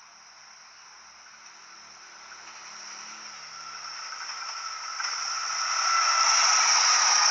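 A train approaching on the rails: the hiss of steel wheels on track grows steadily louder for about six seconds, with a faint thin whine in it, then levels off loud.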